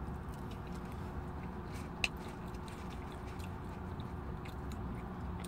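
Close-up chewing and mouth sounds of a person eating, with a sharp click about two seconds in, over a steady low hum inside a car.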